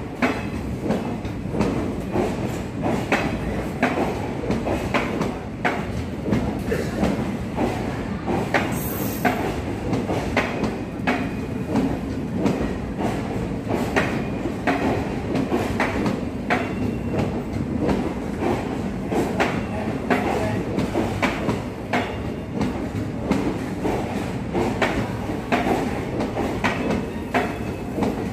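Passenger coaches of the Chennai–Bangalore Mail rolling past along the platform as the train arrives: a steady rumble, with the wheels clicking over the rail joints again and again.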